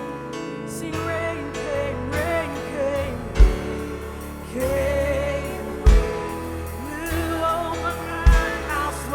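Live worship band playing a song, with keys and bass holding chords, singing over them from about a second in, and a bass drum hit about every two and a half seconds.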